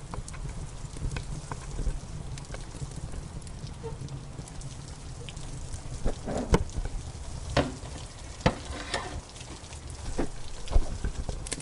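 Wood fire in a fireplace crackling, with scattered sharp pops that come thicker and louder from about six seconds in, over a steady hiss of rain and a low rumble.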